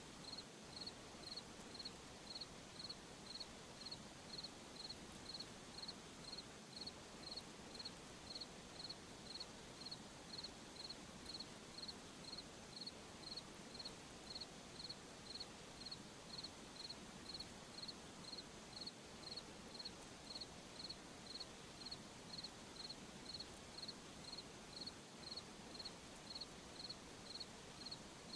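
Crickets chirping at night, faint, in a steady even rhythm of about one and a half chirps a second, with a soft continuous insect hiss behind.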